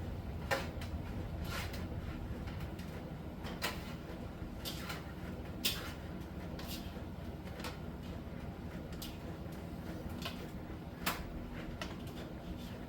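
Miele T1 heat-pump tumble dryer running in the steam saturation phase of its Soft Steam cycle: a steady low hum from the drum and machinery, with irregular light clicks and taps as the laundry tumbles in the drum.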